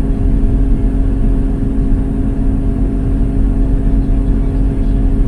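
Cotton stripper running steadily with its fans and cleaners just switched on: an even low rumble with a constant hum, with no changes or knocks.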